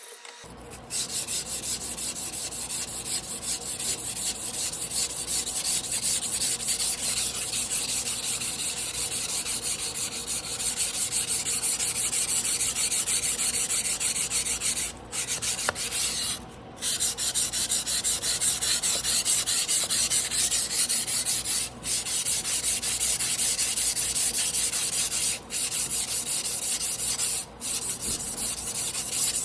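Steel blade of a Tojiro Damascus carbon-steel yanagiba being stroked back and forth on a whetstone by hand, a steady gritty scraping that stops briefly a few times.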